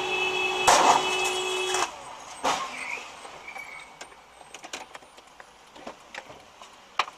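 A steady horn tone is held for nearly two seconds, with a loud bang partway through. After it come a sharp knock, quieter road noise with scattered small clicks, and one more sharp knock near the end.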